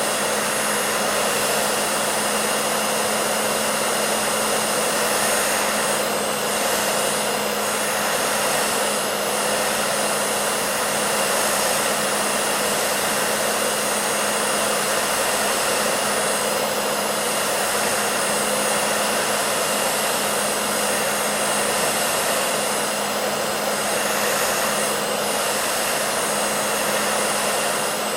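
Hair dryer running continuously: a steady rushing of air over a constant motor hum.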